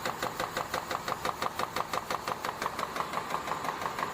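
Power punch press running continuously, stamping the shape of blades out of steel with a rapid, even rhythm of strokes, several a second.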